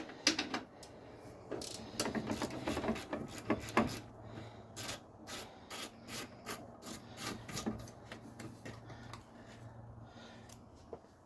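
Hand tools working a 10 mm bolt loose: a string of irregular metallic clicks and rubbing, like a ratchet and socket turning the bolt out.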